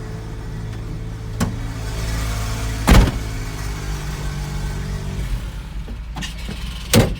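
The 2008 GMC bucket truck's engine idling with a steady low hum, which drops away about five seconds in. Several sharp knocks sound over it, the loudest about three seconds in and another near the end.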